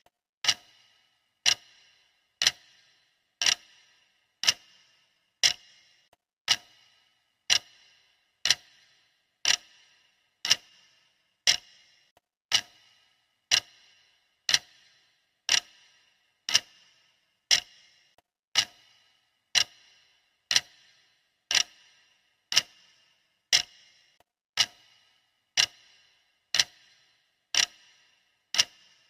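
Clock ticking steadily, one sharp tick a second, each tick with a short metallic ring.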